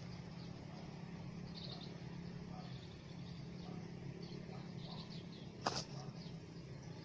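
Faint, high chirps of small birds come and go over a steady low hum. About five and a half seconds in, a single sudden sharp sound stands out above them.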